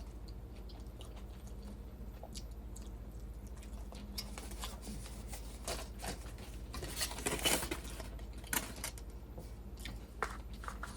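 A person chewing mung bean pancake (bindaetteok) close to the microphone: soft, wet mouth sounds and small crunches, over a faint steady hum. The chewing grows busier and louder a little past the middle.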